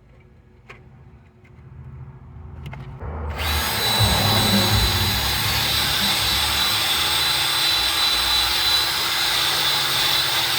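A few faint clicks of handling, then a power tool switches on about three seconds in and runs steadily with a high whine, used to clean the surface of a cylinder head.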